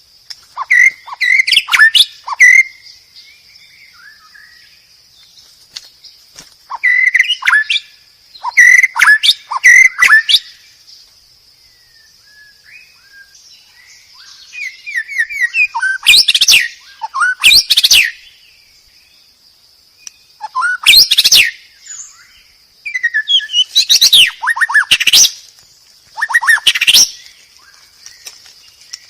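White-rumped shama singing in bursts of rapid, varied whistles and trills, each a second to a few seconds long, separated by short pauses. A faint steady high-pitched hum runs underneath.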